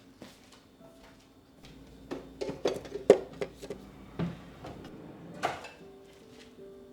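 A run of light clicks and knocks of household objects being handled, some with a brief ring, bunched around the middle; the loudest knock comes about three seconds in, and one more follows near the end.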